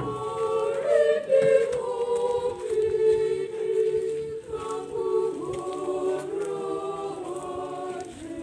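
A group of voices singing together in chorus, beginning suddenly at the start with long held notes.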